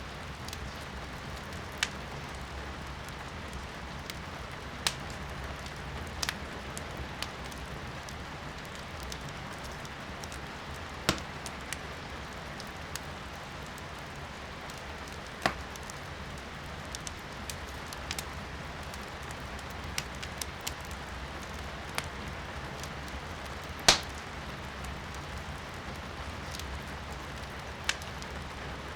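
Firewood burning in a fireplace, crackling with sharp irregular pops every second or few, one much louder pop late on, over a steady hiss of rain heard from indoors.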